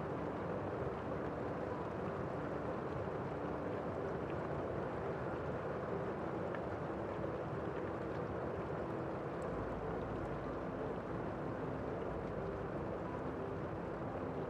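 Steady rain falling outside, heard from indoors as an even, muffled hiss without a break.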